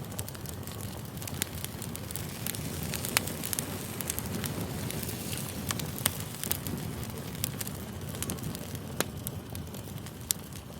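Campfire burning: a steady low rumble with frequent sharp crackles and pops of the burning wood, easing off slightly near the end.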